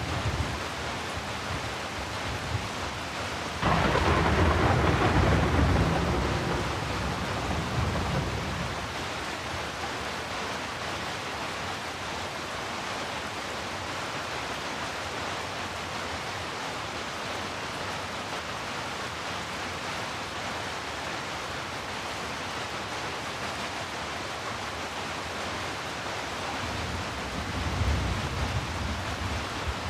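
Steady heavy rain. About four seconds in, a sudden thunderclap rolls away over the next few seconds, and a lower rumble of thunder comes near the end.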